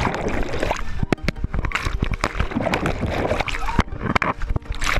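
Water splashing and sloshing around a boat, with people's voices shouting over it, frequent sharp knocks, and a steady low rumble of wind on the microphone.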